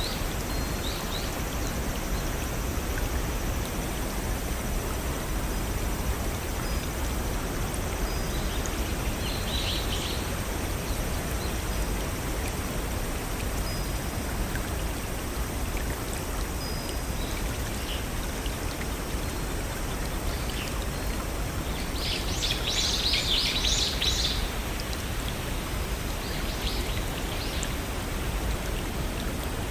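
A brook running over small waterfalls, a steady rushing of water. Birds chirp over it in short bursts, loudest about two-thirds of the way through.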